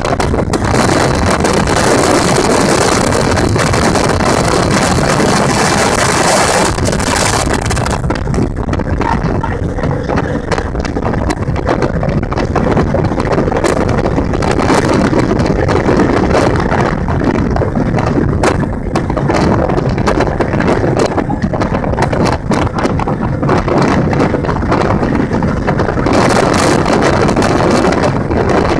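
Motorboat under way at speed: loud, steady rush of engine, hull on water and wind buffeting the microphone, with stronger hissing gusts during the first several seconds and again near the end.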